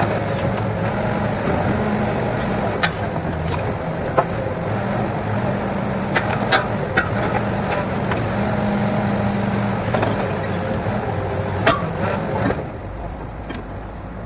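Borewell drilling rig's engine running steadily, with a few sharp knocks through it; the machine noise drops noticeably near the end.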